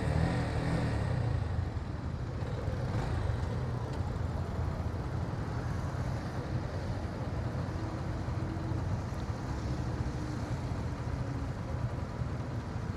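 Motorcycle riding along at a steady pace: a low, steady engine rumble with wind and road noise rushing over the camera microphone.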